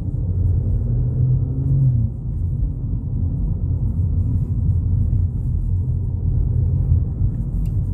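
Steady low rumble of engine and road noise inside the cabin of a 2022 Volkswagen Polo GTI as it drives off, its engine note rising slightly over the first two seconds.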